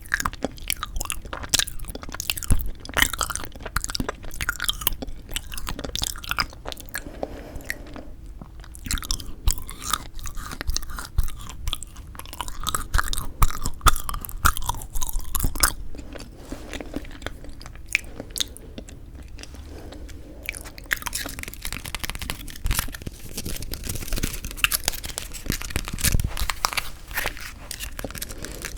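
Close-miked chewing and crunching of frozen yanggaeng (Korean sweet red-bean jelly), with many sharp crackly bites and clicks.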